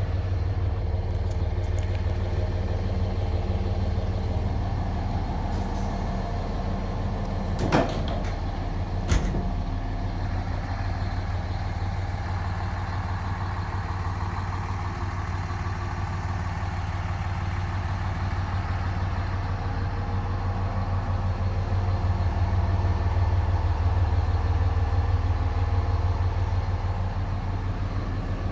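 Cummins 24-valve 5.9-litre straight-six turbo diesel idling steadily, with two short clicks about eight and nine seconds in.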